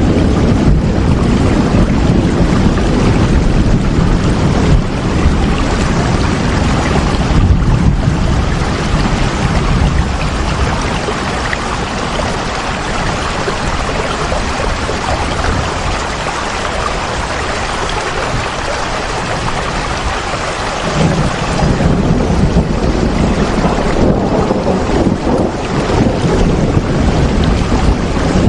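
Steady heavy rain falling, with a deep low rumble under it that eases off midway and builds again near the end.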